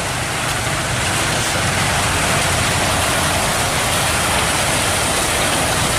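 Heavy diesel engine running steadily at a constant speed, with a dense, even rushing noise over it.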